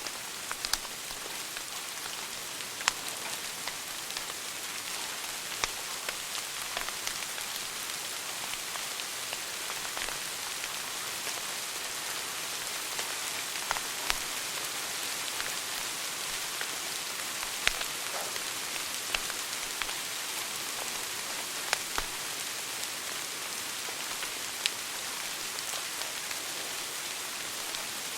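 Wood fire burning in a fireplace: a steady hiss with sharp crackles and pops every second or few.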